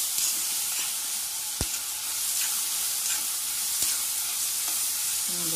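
Sliced onions and green chillies sizzling in oil in a cast iron kadai, stirred and scraped with a spatula. One sharp knock about a second and a half in.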